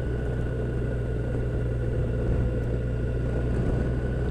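Yamaha FJR1300ES sport-touring motorcycle's inline-four engine running steadily at cruising speed, with a steady drone of road and wind noise.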